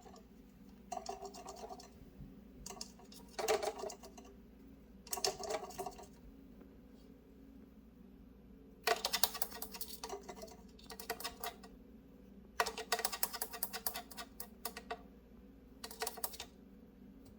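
Rapid tapping clicks in bursts of about one to two seconds, eight or so times, over a faint steady low hum.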